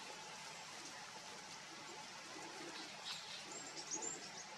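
Faint steady outdoor background hiss, with a few brief, very high-pitched bird chirps about three and a half seconds in.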